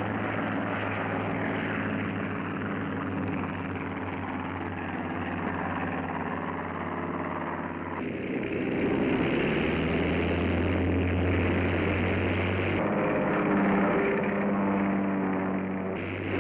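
Curtiss P-40 fighter's piston engine and propeller running at high power for a carrier takeoff, a steady drone that shifts abruptly about 8 and 13 seconds in.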